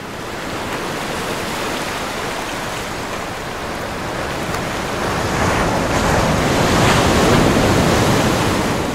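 Steady rushing of wind and water from a moving boat, with wind buffeting the microphone, growing louder about five seconds in.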